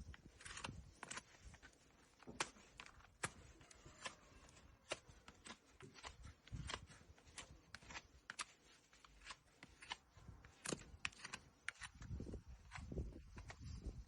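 Faint, irregular sharp clicks and snips from a farrier trimming a horse's hoof, with a few low thuds near the end.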